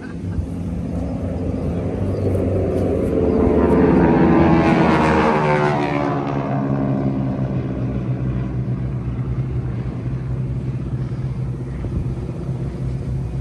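Engine of a passing vehicle, rising to its loudest about four to five seconds in and then dropping in pitch as it moves away, leaving a steady lower engine hum.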